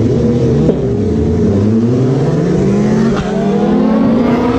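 Sport bike engine accelerating: its pitch wavers briefly, then rises steadily as the bike pulls harder.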